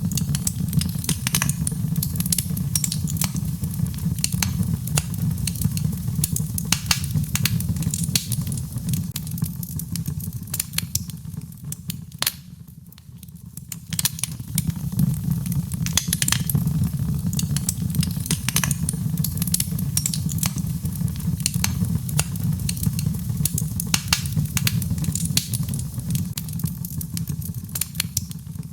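Birchwood fire burning in a fireplace: a steady low rumble of flames with frequent sharp crackles and pops. It quietens briefly about halfway through, then picks up again.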